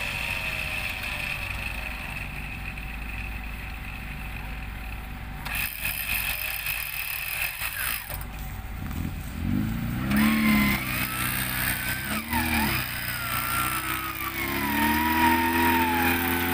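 Suzuki Vitara off-roader's engine running steadily, then revved hard in three bursts from about nine seconds in as the truck sits bogged in mud, with a higher whine sliding up and down under the revs.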